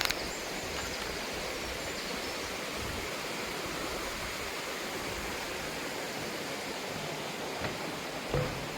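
Mountain valley stream rushing steadily, a constant even sound of flowing water.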